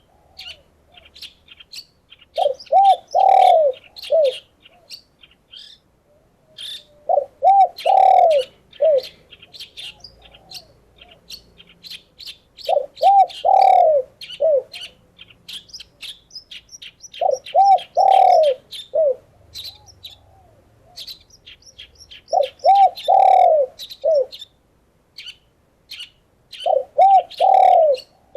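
A dove cooing a short phrase of a few arched notes, repeated six times about every five seconds, over steady high chirping of small songbirds.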